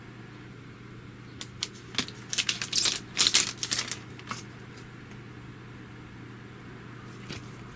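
Small plastic clicks, taps and scratchy rustling from handling a phone screen protector and its backing film, bunched into a quick flurry a second and a half in and dying away after about four seconds, over a steady low hum.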